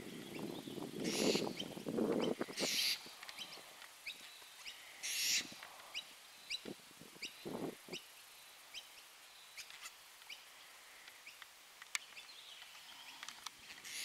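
Apostle birds calling: a few harsh, rasping calls over a low rustle in the first five seconds, then a run of short high chirps about twice a second that dies away after the middle.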